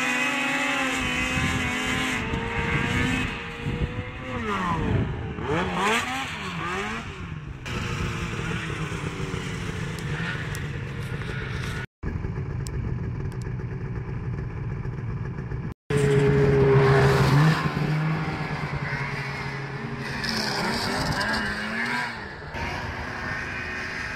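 Snowmobile engines running and revving, the pitch rising and falling several times as the throttle is opened and closed. The sound drops out for an instant twice, where clips are joined.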